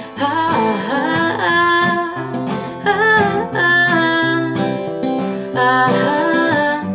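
Acoustic guitar strummed and picked, with a woman's voice singing over it.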